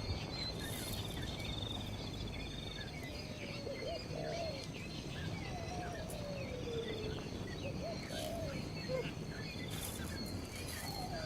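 Outdoor bird and insect chorus: a low whistled call that slides slowly downward is repeated several times over a high, pulsing insect trill and scattered short bird chirps.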